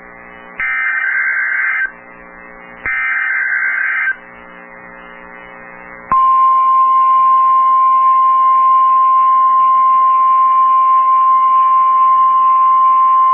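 NOAA Weather Radio emergency alert signalling: two bursts of SAME digital header data, each a buzzy warbling screech about a second long with a faint hum in the gaps between them. About six seconds in, the Weather Radio warning alarm tone starts, one steady unbroken high beep that marks a warning-level alert.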